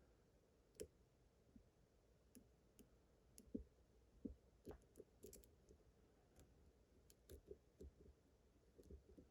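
Faint, irregular clicks and taps of a lock pick working the pins of a pin-tumbler lock held under tension.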